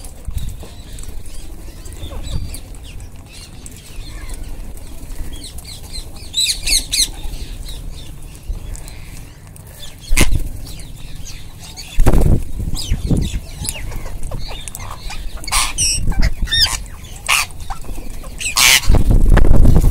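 Wild rose-ringed parakeets giving short, shrill, wavering calls in several bouts, with wing flapping. Loud low buffeting bursts come about midway and near the end.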